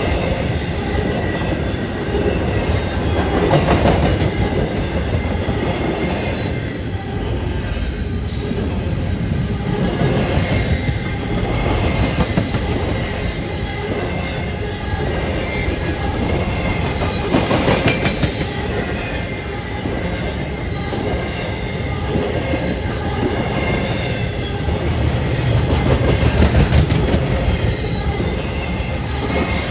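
A train rolling past, its railcars rumbling steadily with repeated clicks from the wheels passing over the rail joints.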